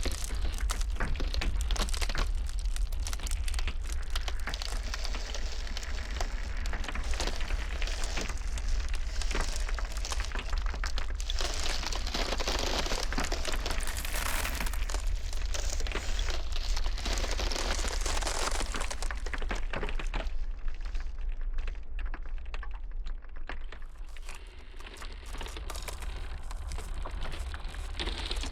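Iceberg ice cracking and crackling in a dense run of small snaps, over a steady low blizzard rumble. The crackling thins out for a few seconds about three-quarters of the way through, then picks up again.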